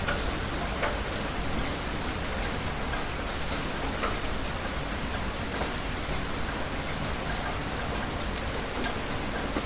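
Heavy rain falling steadily, a dense even hiss with a few sharper drop hits standing out now and then.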